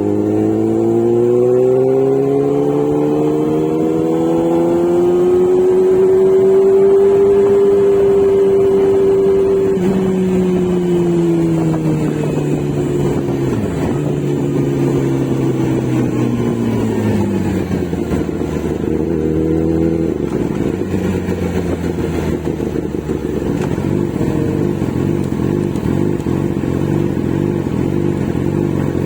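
Motorcycle engine running. Its pitch climbs smoothly over several seconds, holds, then falls away. It rises briefly once more before settling into a steady lower note.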